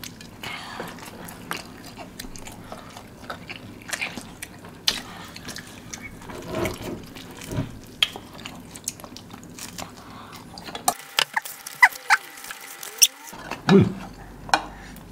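Close-up mouth sounds of eating: chewing and biting into sauced chicken pulled off a skewer, with many short wet clicks and smacks.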